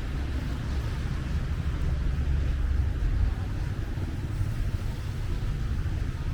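Passing city street traffic, a steady low rumble of cars that swells about two to three seconds in.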